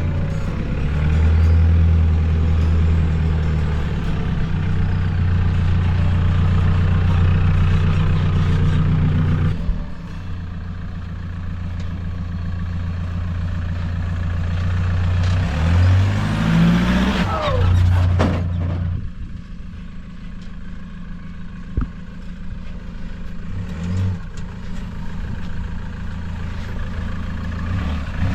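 Truck engine running while driving, steady at first, then rising in pitch in short revs several times in the second half, as on gear changes or climbs.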